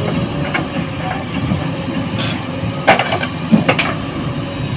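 Heavy diesel engine running steadily, with a sharp knock about three seconds in and a quick pair of knocks just after.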